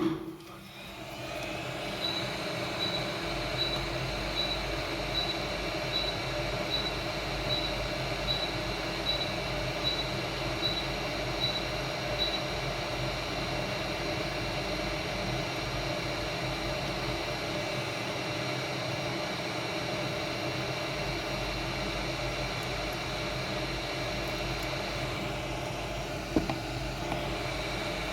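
A small electronic machine starts up with a steady fan hiss and hum, likely a hot air rework station. About two seconds in it gives a string of short, high, evenly spaced beeps, a little over one a second, that stop after about ten seconds while the fan runs on.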